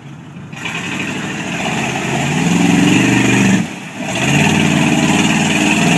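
Monster truck engine accelerating under load, the pitch climbing in two pulls with a brief sharp drop between them a little past the middle.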